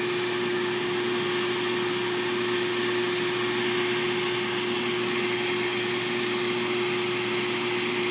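Steady machine drone: an even rushing noise with a constant low hum, unchanging throughout.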